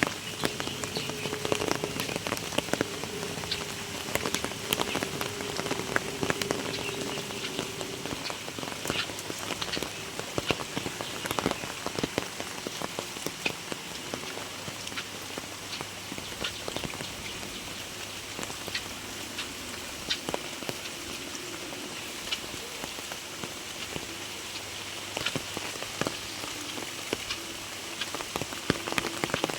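Heavy rain falling steadily, with many sharp, separate drop hits on nearby surfaces.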